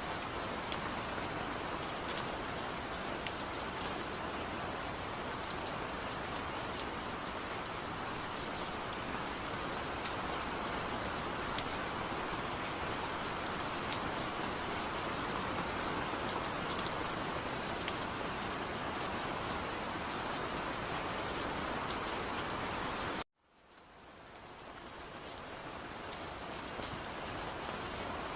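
Steady rain on a surface, with scattered sharper drop ticks. About 23 seconds in it cuts out suddenly, then fades back in over a few seconds.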